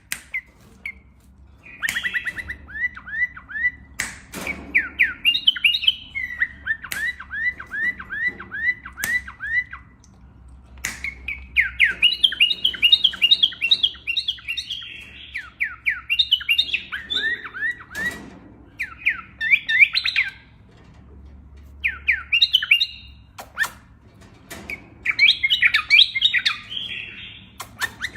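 Pet bird singing in phrases of several seconds: fast runs of repeated down-slurred chirps, broken by short pauses. Sharp clicks sound now and then between the phrases.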